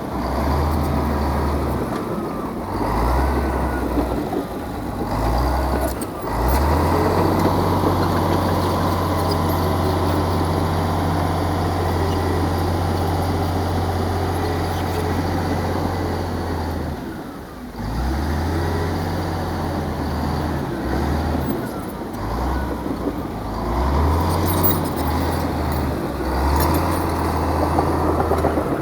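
Heavy diesel earthmoving machine running, its engine note shifting with load, with a brief drop about two-thirds of the way through.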